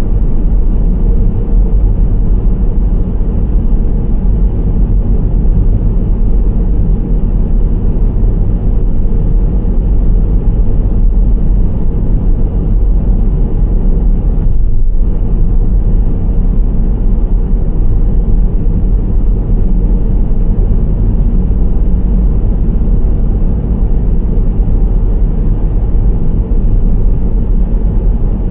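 Steady low road rumble of a Nissan Serena C25 minivan driving at a constant pace: tyre and engine drone, heaviest in the bass, with a brief dip in the higher part of the noise about halfway through.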